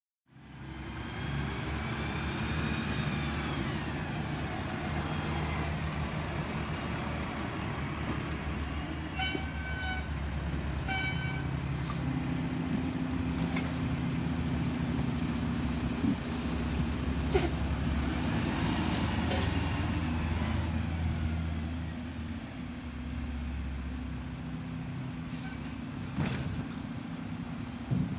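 Garbage truck running with a steady engine hum and a whine that rises and falls, once near the start and again about twenty seconds in. There are two short beeps about ten seconds in, and a few sharp knocks.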